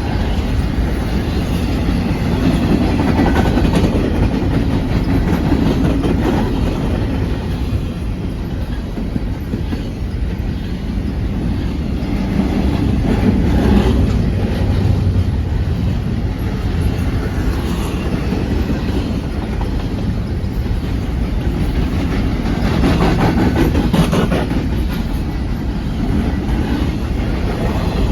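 Freight train of container cars rolling past, a steady rumble of steel wheels on rail with a rhythmic clickety-clack as wheelsets cross rail joints, swelling and easing every ten seconds or so.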